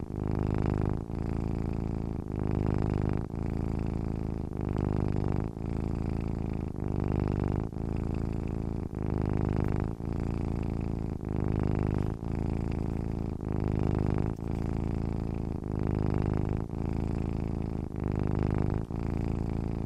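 Domestic cat purring steadily while asleep, the purr running in even cycles with a brief dip about once a second as it breathes in and out.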